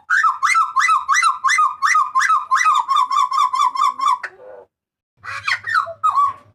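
Hooded butcherbird (jagal papua) calling loudly: a fast run of about seventeen repeated whistled notes, some four a second, for about four seconds, then after a short pause a few separate downward-sliding calls.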